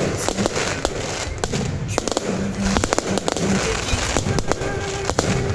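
Aerial fireworks bursting overhead: a dense, continuous run of sharp bangs and crackles in quick succession.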